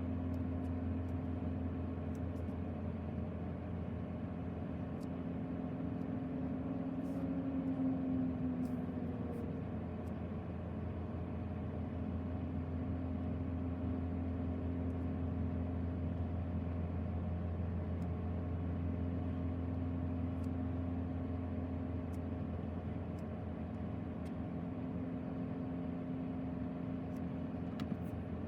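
Steady low drone of the 2024 BMW X2 M35i's 2.0-litre turbocharged inline-four idling, heard from inside the cabin, its pitch wavering slightly for a few seconds.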